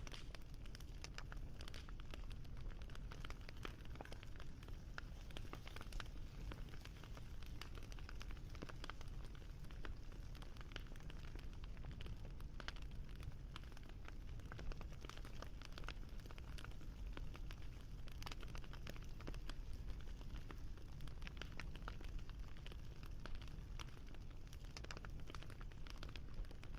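Wood fire crackling: a soft steady hiss and low rumble with dense, irregular small pops and snaps, a few slightly sharper ones.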